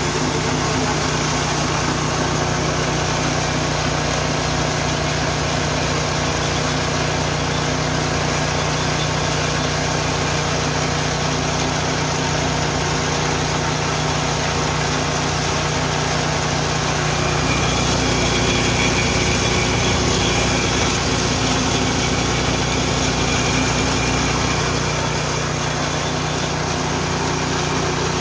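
Richi KD 350 mini rice and corn milling machine running steadily, with a small engine's drone. It grows a little louder for several seconds past the middle, with a faint high whine.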